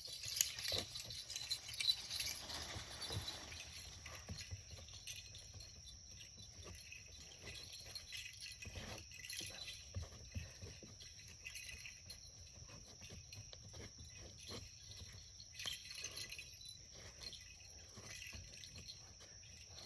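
A faint, steady high-pitched whine sets in a few seconds in and holds until just before the end, with scattered soft clicks and knocks throughout.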